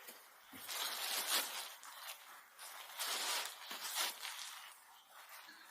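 Hands working a clay sculpture, giving two longer bouts of rustling and scraping, one about a second in and one about three seconds in, with smaller rubs between them.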